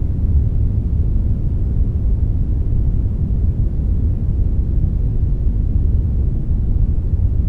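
Steady synthetic brownish noise, a blend of brown and white noise: an even, unchanging deep rumbling hiss, heaviest in the low end.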